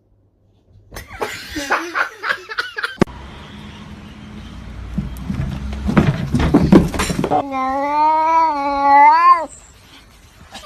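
Domestic cat yowling, with one long wavering call of about two seconds near the end.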